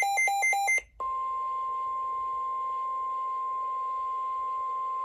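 A few quick beeps alternating between a low and a high pitch, then a brief gap, then a single steady tone of about 1050 Hz: the NOAA Weather Radio warning alarm tone, which signals that a warning follows.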